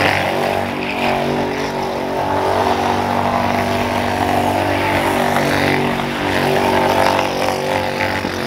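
A vehicle engine running loud and close at a fairly steady speed.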